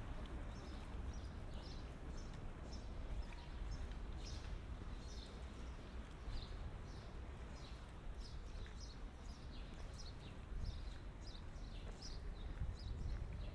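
Small birds chirping, many short high chirps in quick succession, over a steady low city rumble.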